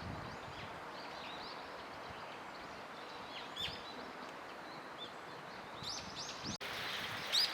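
Small birds giving short, scattered chirps over steady outdoor background hiss, with a denser run of chirps near the end.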